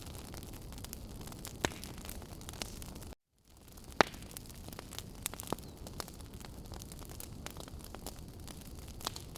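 Wood fire burning: a steady low rush of flames with sharp crackles and pops of firewood scattered through it. The loudest pop comes about four seconds in. The sound cuts out completely for a moment about three seconds in.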